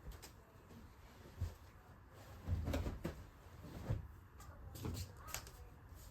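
A few soft, low thuds and knocks about a second apart, like cupboard doors or other household things being handled.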